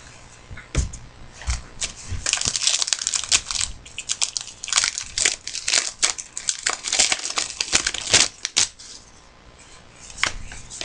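Card pack wrapper crinkling and crackling as it is torn open and handled: a dense run of crackles with a few low thumps in the first couple of seconds, dying away about nine seconds in.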